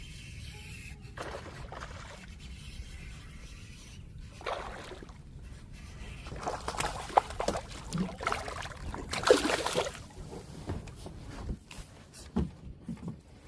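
Water splashing and sloshing against a kayak in irregular bursts, loudest and busiest about six to ten seconds in, over a steady low rumble.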